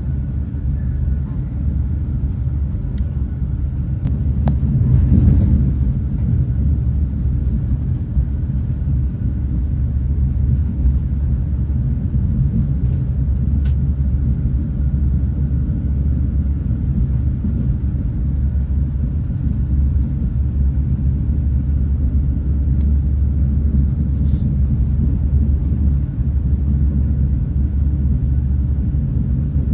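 Renfe class 130 (Talgo 250) high-speed train running along the line, heard from inside the passenger coach as a steady low rumble, with a brief swell about five seconds in.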